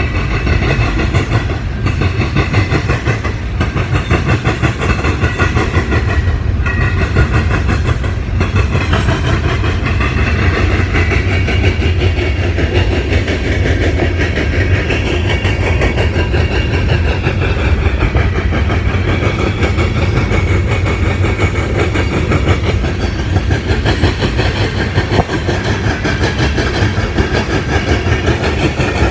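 Freight train cars rolling past with a steady loud rumble of wheels on rail and a ringing metallic whine, with several sharp clicks over rail joints in the first eight seconds or so.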